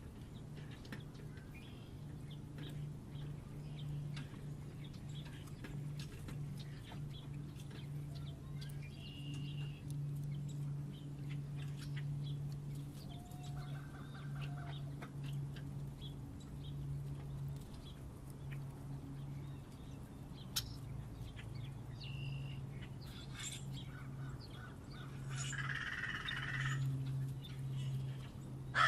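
Wild birds calling at a bird feeder: a few short, thin calls spaced several seconds apart, then a louder, harsher call near the end. A steady low hum and scattered faint ticks run underneath.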